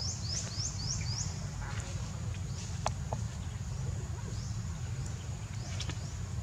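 A bird calling a quick run of rising chirps, about four a second, that stops a little over a second in, with a few fainter chirps later. Under it run a steady thin high drone and a low rumble.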